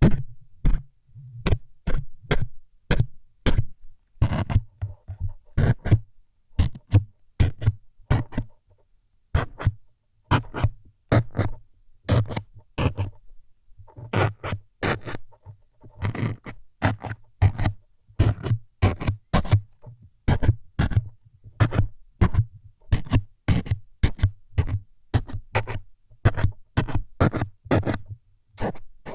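ASMR needle-stabbing trigger sounds: short, crisp jabbing scrapes repeated about two to three times a second in irregular runs, with brief pauses between runs.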